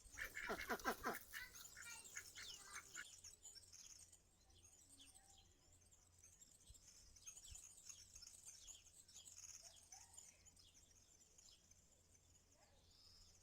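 Faint birds chirping, with a louder run of repeated calls in the first few seconds.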